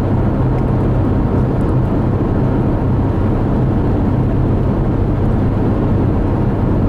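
Steady road noise inside a car cruising at freeway speed: tyre rumble on the pavement with a low, even engine drone.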